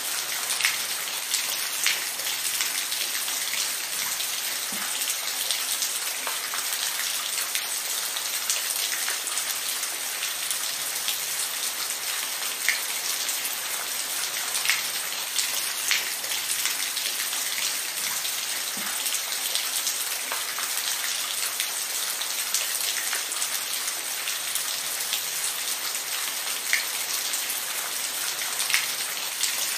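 Steady rain falling, an even hiss with scattered louder drops pattering on a surface.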